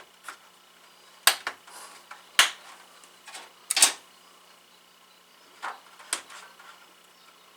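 DDR4 RAM sticks being pressed into the motherboard's DIMM slots, the slot latches snapping shut: a series of sharp clicks, about six, the loudest about two and a half and four seconds in.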